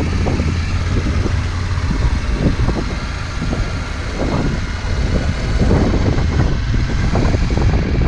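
Adventure motorcycle running along at speed, its engine rumbling under a loud rush of wind over the microphone.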